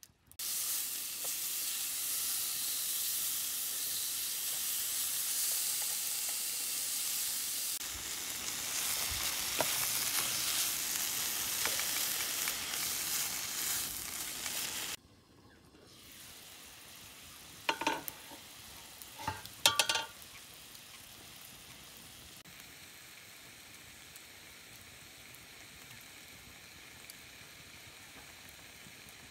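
Sliced pork and vegetables sizzling in a frying pan as they are stir-fried with chopsticks. About fifteen seconds in the sizzling cuts off abruptly, leaving a much quieter hiss with two short louder sounds a few seconds later.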